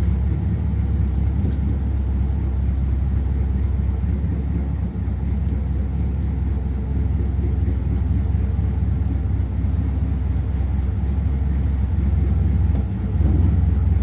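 1957 Ford Thunderbird's V8 running steadily on its two-barrel carburettor setup, a low engine sound that gets a little louder about 13 seconds in.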